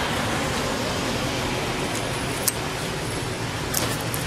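Steady hiss of light rain falling on the forest canopy, with a few sharp drip-like ticks.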